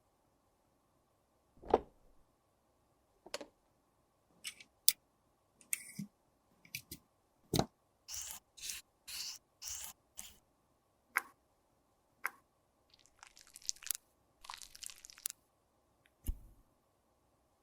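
Close-up handling sounds of makeup products and tools: sharp clicks and taps, a run of five short scrapes about halfway through, then a couple of seconds of rustling and scraping.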